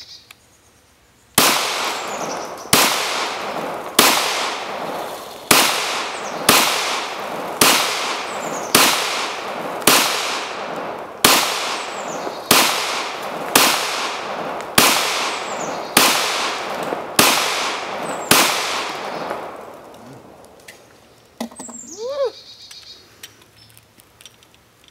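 Glock 22 .40 S&W pistol fired in slow, steady semi-automatic fire, about fifteen shots roughly a second apart. Each shot trails off in a long echo. The firing stops about three quarters of the way through.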